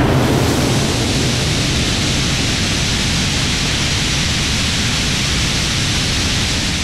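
Aeon R methane-oxygen rocket engine firing on a test stand: a loud, steady noise spread across all pitches, without any tone or rhythm.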